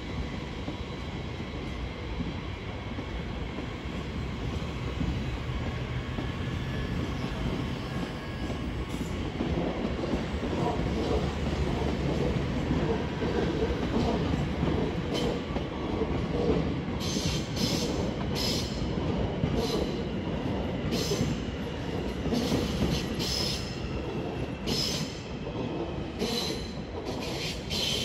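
Electric commuter trains rolling slowly over the curved approach tracks and points, a steady rumble that grows louder about a third of the way in. From about halfway, repeated sharp squeals and clacks of wheels on the curves and switches come every second or so.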